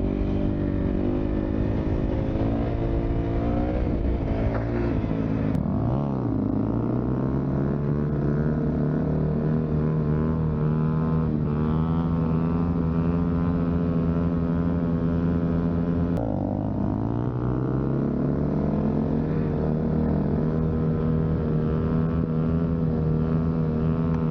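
Dirt bike engine running hard. Its pitch drops twice and climbs back, then holds a steady high note for long stretches, as when a wheelie is carried on a held throttle.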